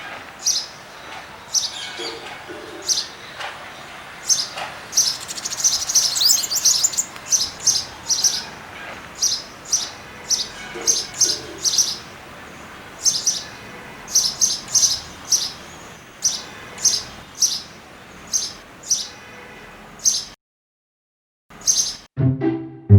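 Small birds chirping: short, high chirps repeated about once a second, with a burst of rapid twittering about six seconds in. The chirping cuts off suddenly near the end and music starts.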